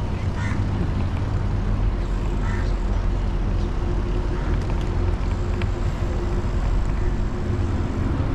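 Steady low rumble of wind and motion noise on an action camera's microphone while riding a bicycle, with a faint steady hum underneath.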